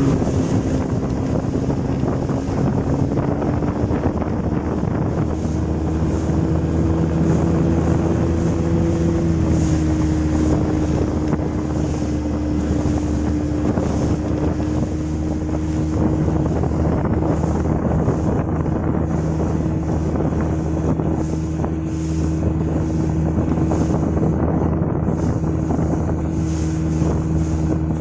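Motorboat engine running at a steady cruising speed while the boat is underway, with water rushing past and wind buffeting the microphone. The engine note holds steady, with a slight shift in pitch about nine seconds in.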